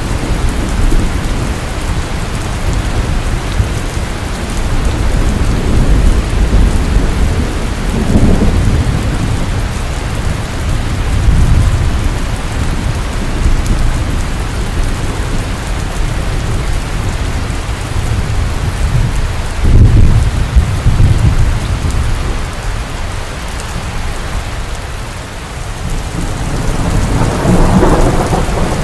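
Steady heavy rain falling, with deep rolls of thunder rumbling through it several times, the loudest about twenty seconds in and another near the end.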